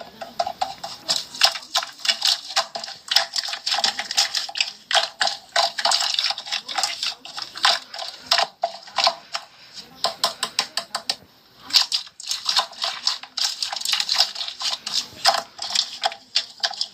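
Rapid, irregular clicking and tapping: many small hard clicks in quick succession, with a brief pause about eleven seconds in.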